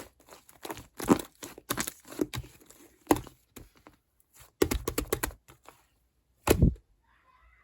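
Clear slime mixed with shaving foam being squished and stretched by hand, giving irregular sticky crackles and pops in short bursts with brief pauses between.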